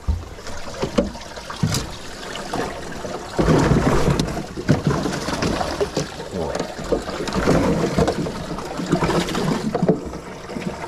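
Water splashing and trickling in an aluminum fishing boat, with small knocks against the hull, louder from about three and a half seconds in.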